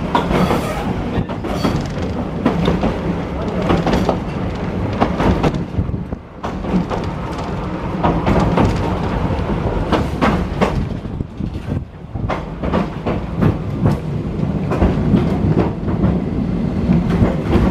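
Ex-Melbourne W2 class electric tram running along the track: a steady rumble from the running gear, with irregular sharp clacks as the wheels cross rail joints.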